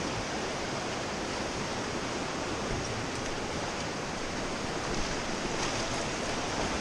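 Steady rush of river water from whitewater around a raft.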